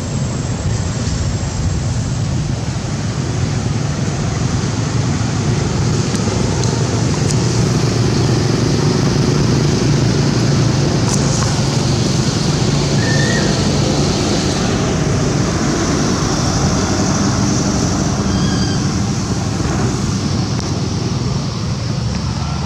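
Steady road traffic noise, a continuous engine and tyre rumble with no clear break. A few faint, brief high chirps sound over it partway through.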